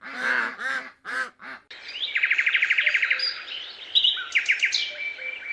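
Four short, pitched animal calls in the first second and a half, then small birds singing: a fast, even trill of about ten notes a second, followed by quick chirps and whistles.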